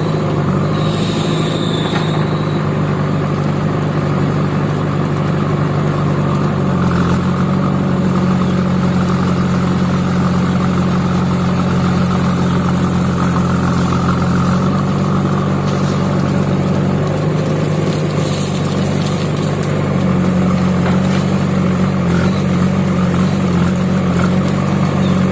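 Tractor engine running steadily at low revs, its pitch shifting slightly a few times.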